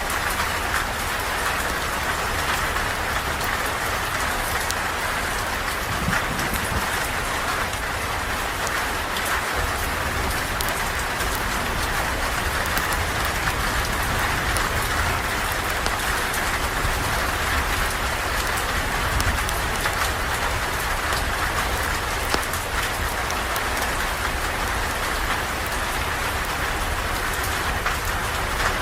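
Steady rain falling: an even, unbroken hiss with a low rumble beneath and many small drop ticks scattered through it.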